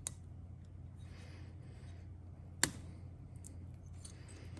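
Quiet handling of engine parts: a soft rustle and two light clicks, the second one sharper, about two and a half seconds in, over a low steady hum.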